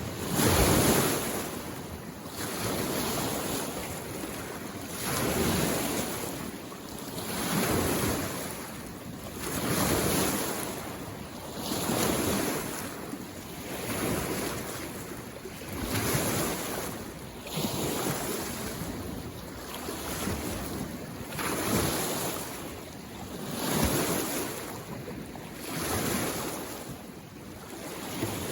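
Small waves on a mountain lake coming in against the shore, a new wave washing in about every two seconds.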